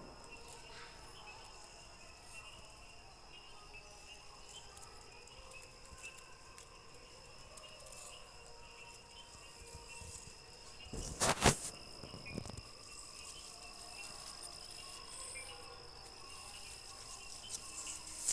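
A steady insect chorus, a constant high-pitched trill with fainter chirping under it. About eleven seconds in, a couple of sharp knocks stand out, louder than the insects.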